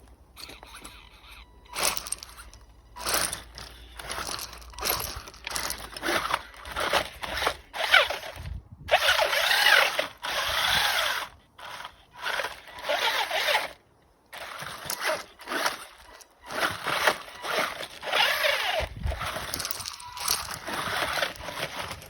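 WLtoys 12428 RC truck's electric motor and gears whirring in repeated bursts of throttle, some long and some short, as it scrabbles over rocks on a crawler track.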